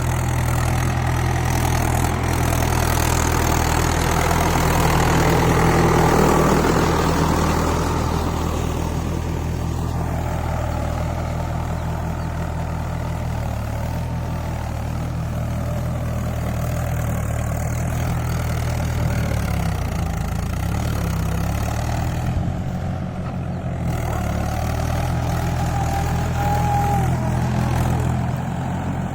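Farm tractor's diesel engine running steadily while pulling a plough through a field, a low even drone that swells a little about six seconds in.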